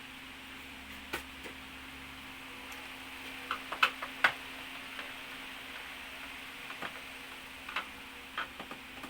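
Scattered small clicks and taps from screws, a screwdriver and the TV's plastic and metal parts being handled during disassembly, with a quick cluster of clicks about four seconds in, over a faint steady hum.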